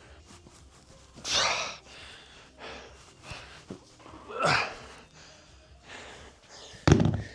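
Heavy, forceful exhales from a man working through dumbbell hang squat cleans, two loud breaths about three seconds apart. A single sharp thud near the end.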